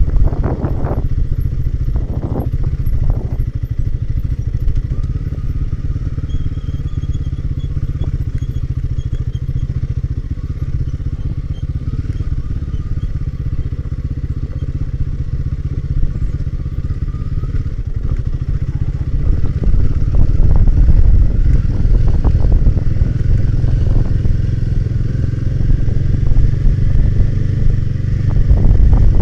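Royal Enfield Himalayan 450's single-cylinder engine running steadily as the bike rides along, with a few knocks in the first seconds. It grows louder about two-thirds of the way through.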